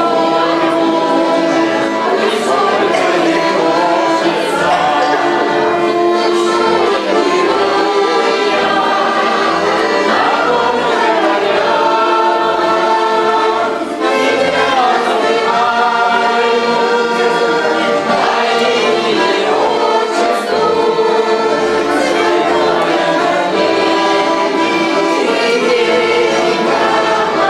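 A group of women singing a song together in chorus, their voices holding long notes.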